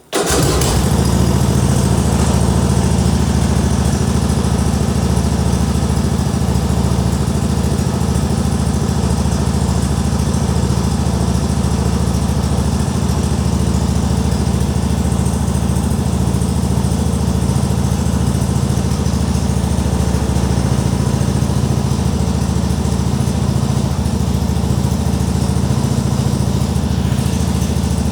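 Tractor engine catching right at the start and then running steadily at idle, with a deep even drone.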